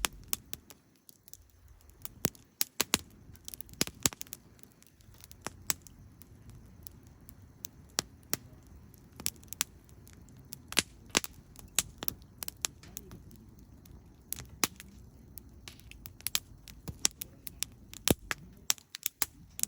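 Wood campfire crackling: irregular sharp pops and snaps over a low, steady rumble of the flames.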